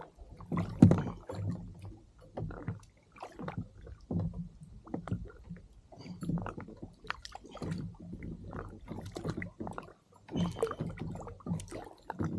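Water sloshing and gurgling against a kayak's hull, with irregular knocks and bumps on the hull.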